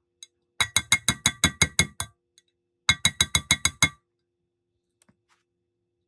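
Rapid runs of sharp metallic taps, each ringing at the same pitch, about six to seven a second: one run of about ten taps, a short pause, then a second run of about seven.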